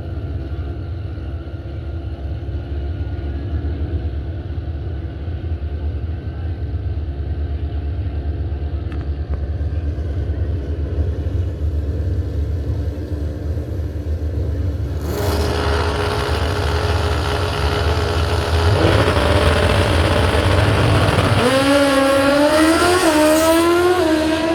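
Pro Street drag motorcycles running at the start line: a steady low idle rumble, then a sudden loud rise in engine noise about 15 seconds in. Near the end an engine's pitch climbs, drops and climbs again as a bike accelerates up through its gears.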